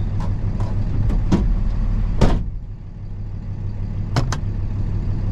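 Semi-truck engine idling with a steady low hum, under a series of sharp clicks and knocks from the cab. One louder slam comes about two seconds in, after which everything sounds quieter.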